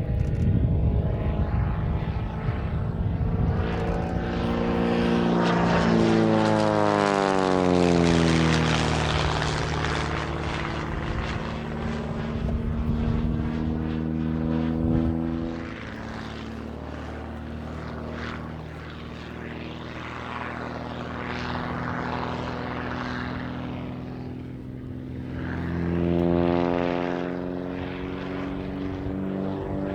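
Pitts Special aerobatic biplane's piston engine and propeller running at high power, the pitch falling steadily about a quarter of the way in, then quieter and steady, and rising again near the end.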